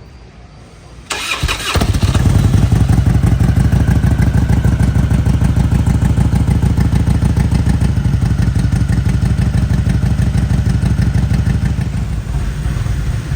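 Motorcycle engine started about a second in: a brief whirr of the starter, then it catches and runs at a steady idle with an even, rapid pulse.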